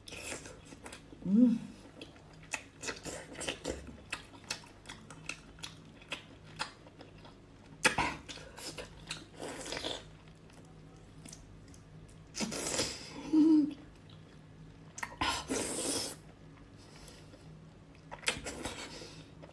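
Close-up wet chewing and biting on a whole cooked octopus in spicy sauce: many quick clicks and smacks, with several longer noisy slurps about a second long.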